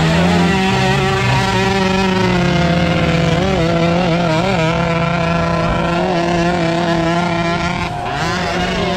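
Motocross dirt bike engine running loud at fairly steady revs, close by. About four seconds in, the pitch wobbles up and down a few times.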